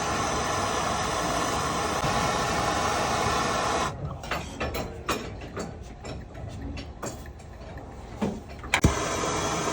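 Plumbing torch flame hissing steadily while copper pipe is heated for soldering. The flame cuts out about four seconds in, leaving scattered small clicks and knocks of handling. A sharp click comes near the end, and then the hiss starts again.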